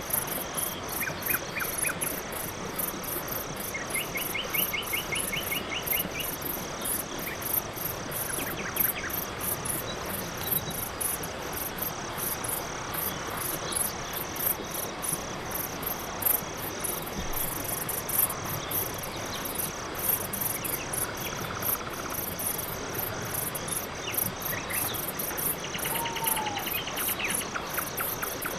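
Night forest ambience: crickets and other insects chirping in a steady, fast-pulsing chorus, with occasional short trilled calls from other animals and a brief falling whistle near the end.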